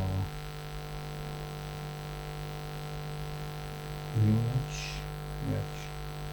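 Steady electrical mains hum in the recording, a low drone with a row of fainter steady tones above it, with a brief spoken word or two near the end.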